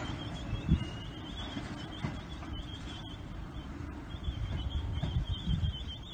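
A freight train of empty container flat wagons rolling away along the track, a low rumble with a few soft thumps. Birds chirp repeatedly over it.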